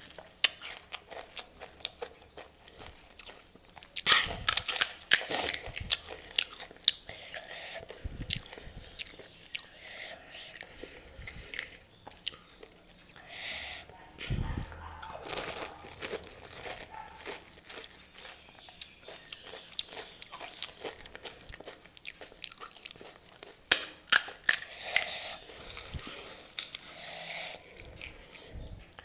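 A person eating pani puri close to the microphone: the crisp puri shells crack as they are bitten, followed by chewing. Loud bursts of crunching come about four seconds in and again near the end.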